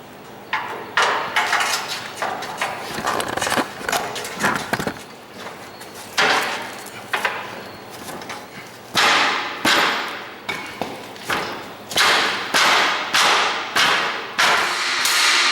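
Hammer blows on steel, each strike ringing on. Scattered, uneven strikes at first, then a steady run of loud blows about two a second from about nine seconds in.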